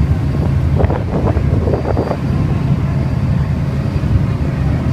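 Wind buffeting the microphone: a loud, steady low rumble, with faint voices briefly about a second in.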